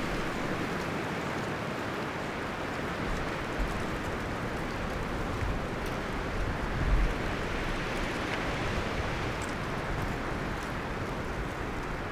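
Wind blowing through forest trees, a steady rustling of leaves and branches, with low gusts swelling now and then and a stronger gust about seven seconds in.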